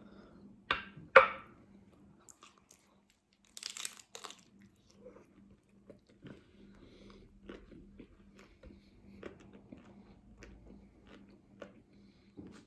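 Biting into a hard-shell taco: two loud crunches about a second in, a short crackle near four seconds, then steady chewing with small crunches of the shell.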